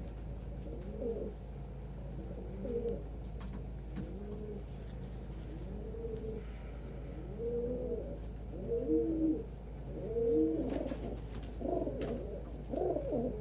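Domestic pigeons cooing, one arched call after another, overlapping more thickly in the last few seconds, over a steady low hum.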